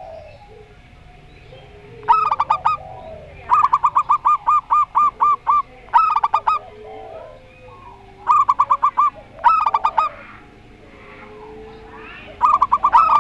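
Zebra doves (perkutut) calling back and forth in loud phrases of quick, rolling cooing notes. One long run of about a dozen notes comes early on, and shorter bursts follow every second or two.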